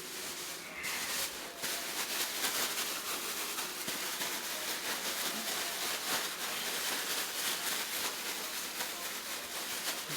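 Flour-dredged chicken frying in hot oil: a dense, steady crackling sizzle that thickens about a second in.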